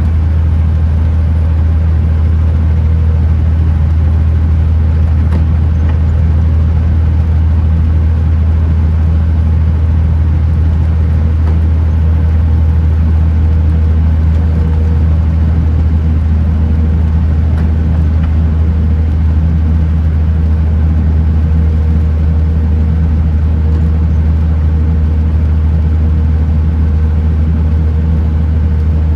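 Kenworth T909 truck driving at a steady speed: a loud, steady low drone of the diesel engine and road noise, holding one pitch throughout.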